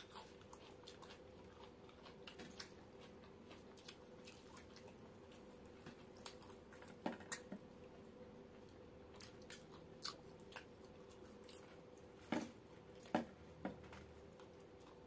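Two people eating roti and chicken curry by hand: soft chewing, lip smacks and small clicks, with a few louder smacks about seven seconds in and twice near the end. A faint steady hum runs underneath.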